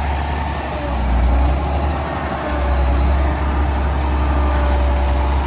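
Heavy diesel earthmoving machinery running with a deep, continuous rumble that swells and eases slightly. Faint thin whining tones sit above the rumble.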